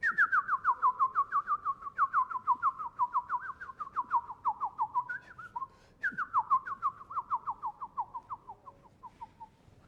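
Bird song: two long trills of rapid whistled notes, about six a second, each note sliding down. Each trill drifts lower in pitch as it goes, with a short break between them, and the second trill fades away near the end.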